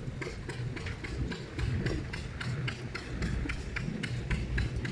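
A machine running with an even, rapid clicking, about four to five clicks a second, over a steady low rumble.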